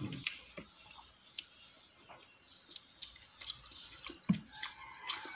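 Soft, scattered wet chewing and lip-smacking clicks of a person eating a piece of chicken by hand, with one louder click about four seconds in.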